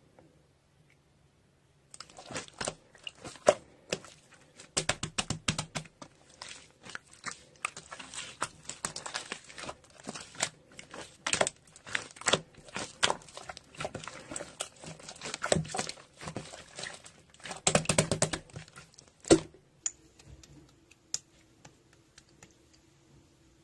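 Slime being squished, pressed and stretched by hand, making a dense run of crackling, popping clicks. It starts about two seconds in and ends with one sharp snap about three-quarters of the way through, followed by faint room sound with a low hum.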